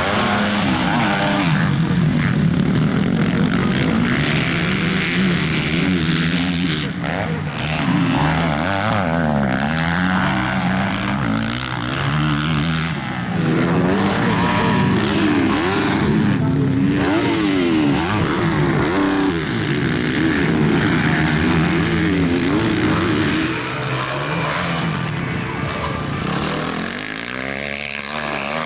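Several motocross bikes racing, their engines revving up and falling back again and again as they shift and brake, with the sounds of more than one bike overlapping.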